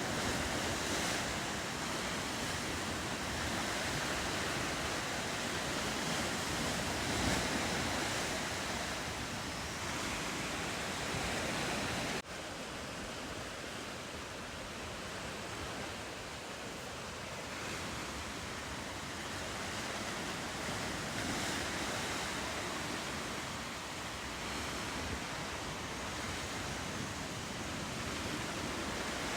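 Ocean surf washing steadily with wind on the microphone. About twelve seconds in it cuts abruptly to a slightly quieter stretch of the same surf.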